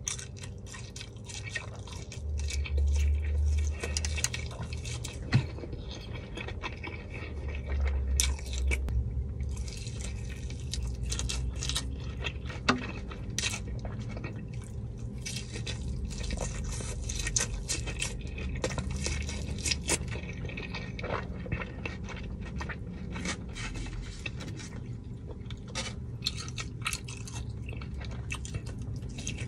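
Close-up eating: wet chewing, smacking and crunching of sauce-covered breaded chicken tenders, as many short clicks and smacks. Two louder stretches of low rumble come about two seconds in and again around eight seconds.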